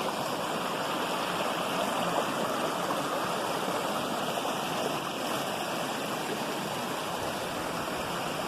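Mineral spring water running off into a small stream, a steady splashing rush of flowing water.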